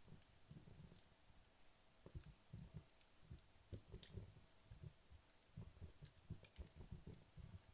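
Wood logs burning in a fireplace, with faint, irregular crackles and small pops over a soft, uneven low rumble of the fire.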